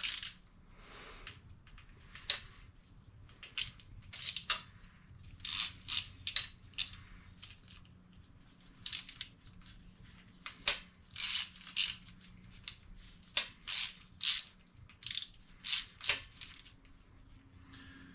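Hand ratchet wrench worked in short strokes, each stroke a quick burst of clicking, about twenty strokes at an uneven pace, as bolts are run in on an engine block.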